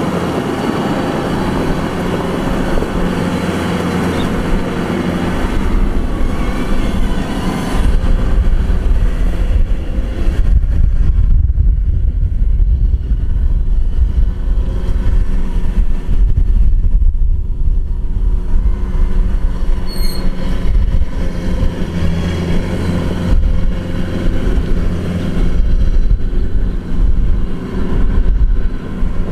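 Kubota DC-105X combine harvester running, a steady mechanical drone of engine and machinery that grows louder and deeper about eight seconds in.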